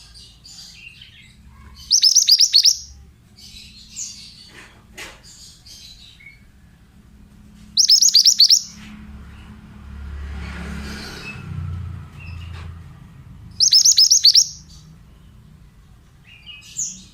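Pied bushchat singing: three loud bursts of rapid, high repeated notes about six seconds apart, with softer scattered chirps between them.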